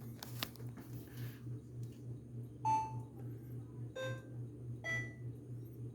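Washing machine control panel beeping as settings are selected: three short electronic beeps of different pitches, about a second apart, beginning a little before halfway. Underneath runs a low steady hum, with a couple of faint clicks near the start.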